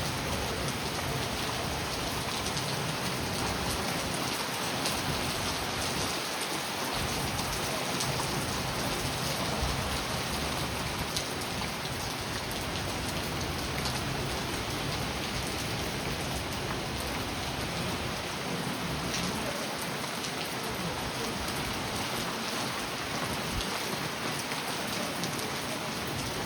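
Steady rain falling on a surface, with many separate drop ticks standing out from the even hiss.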